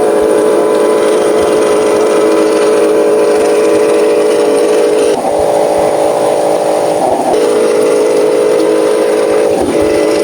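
Radio-controlled model Scania truck's small electric motors whining steadily, the pitch stepping up about halfway through, dropping back a couple of seconds later and shifting again near the end.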